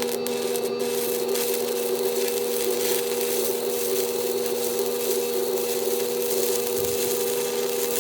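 Stick-welding arc catching at the start and then burning steadily: a continuous crackling hiss over the steady hum of the welding machine.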